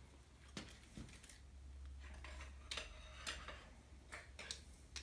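Scattered light clicks and small knocks of a cam bearing installer tool being handled and positioned in an engine block's cam bore, about eight in irregular spacing, over a low steady hum.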